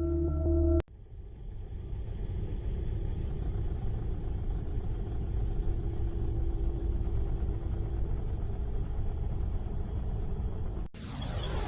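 Low, steady rumbling drone used as the 'sound' of a planet, a sonification of spacecraft space recordings. It starts abruptly about a second in, right after the end of a ringing, bowl-like tone, and cuts off just before the end, where a brighter sound with sweeping pitches begins.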